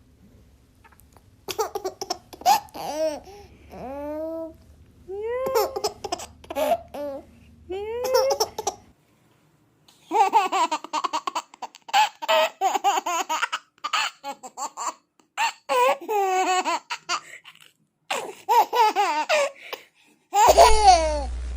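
Babies laughing in a run of short clips. The first is high squealing laughs that rise in pitch, with pauses between them; then comes a long stretch of quick, stuttering giggles; near the end another clip starts over a steady hum.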